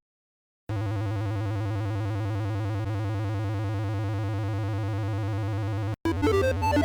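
A steady synthesized electronic buzz with a low hum begins just under a second in and holds unchanged. About six seconds in it gives way to an 8-bit chiptune melody of quick stepping notes.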